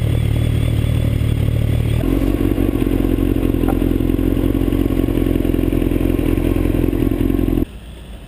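Motorcycle engine running at speed with wind and road rush on the microphone; the engine note shifts about two seconds in and the sound cuts off abruptly near the end.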